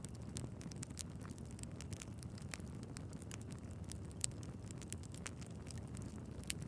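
Wood fire crackling in a fireplace: frequent small sharp pops and snaps from the burning logs over a steady low rush of the flames, with one louder pop about four seconds in.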